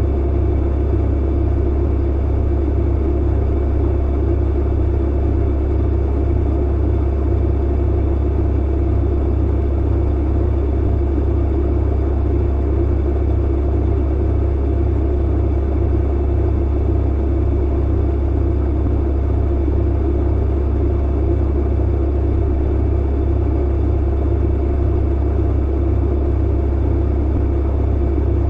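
Tumble clothes dryer running, a steady low rumble from the motor and drum with a constant hum.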